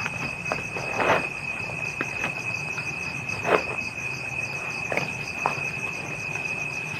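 Night-time crickets calling without a break: one steady high trill with a faster pulsing chirp above it. A few short knocks and rustles of handling come through over it.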